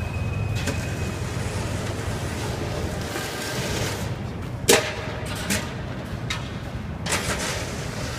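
Outdoor city street noise: a steady low rumble, broken by a few sharp knocks, the loudest about four and a half seconds in and two more near the end.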